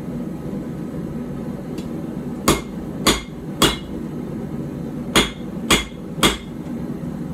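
Hand hammer striking hot steel on an anvil, drawing out the tang of a puukko knife: two runs of three blows, about half a second apart, over a steady low rumble.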